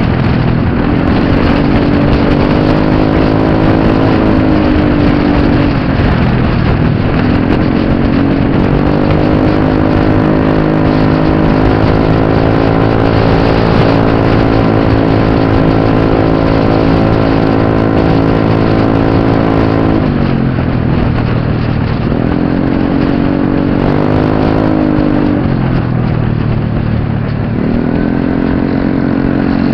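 Scooter engine running hard, its pitch held steady for long stretches as the continuously variable automatic transmission keeps the revs up. Near the end the revs drop and climb again three times as the throttle is closed and reopened.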